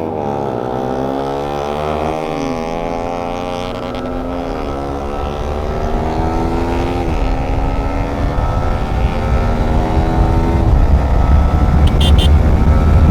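Motorcycle engine accelerating through the gears: its pitch climbs and then drops at each shift, about every two to three seconds. Wind rumble on the microphone grows louder toward the end.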